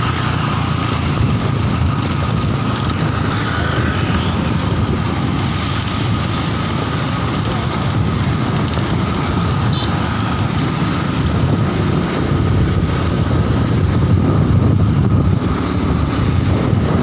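Strong wind rushing over the microphone of a motorcycle riding at speed, with the bike's engine and road noise underneath; steady throughout.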